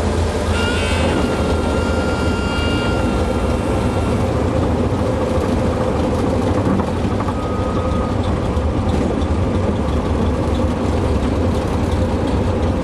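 Cessna 150's four-cylinder Continental O-200 engine and propeller running at low power, a steady drone heard inside the cabin. From about half a second in, a high reedy tone sounds for roughly three seconds: the stall warning horn, which is supposed to sound just before touchdown.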